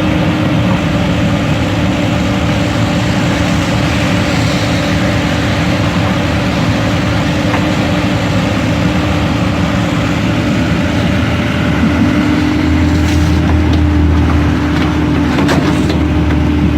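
Engine running steadily with a constant hum; a deeper low rumble grows stronger about twelve seconds in.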